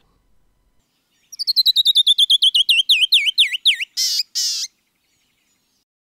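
A songbird singing one song: a quick cascade of about twenty clear whistled notes, each sliding down, that drop steadily in pitch and slow as they go, ending in two short buzzy notes.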